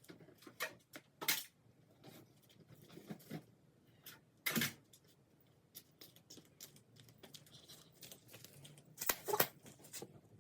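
Scattered light knocks and rustles of things being handled and moved, with louder scraping rustles about a second in, near the middle, and near the end.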